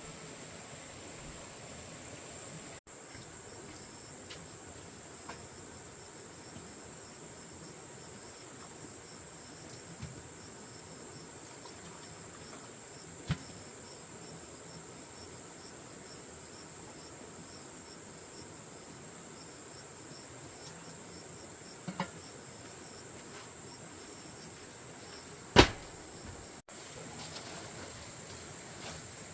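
Steady high-pitched chirring of an insect chorus, with a few sharp knocks or clicks scattered through it, the loudest about 25 seconds in.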